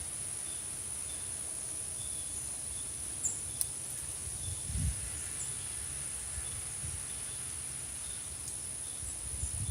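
Insects chirping outdoors: a short, soft chirp repeating about every half second to a second over a steady high-pitched hum. A few faint clicks and a soft low thud come near the middle.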